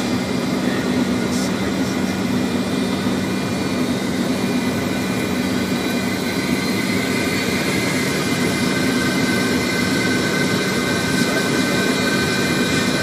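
Steady cockpit noise of a Fokker 100 airliner on approach: rushing airflow and turbofan engine hum, with a constant low drone and faint steady high whines.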